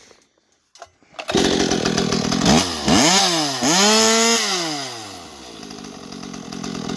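Stihl MS261 C two-stroke chainsaw engine with a racing exhaust pipe, revved out of the cut: it opens up about a second in, is blipped up and down twice, then drops back toward idle.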